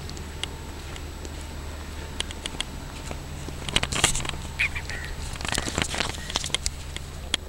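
Birds calling: a few short chirps, then harsh, raspy calls around the middle, over a steady low hum and scattered light clicks.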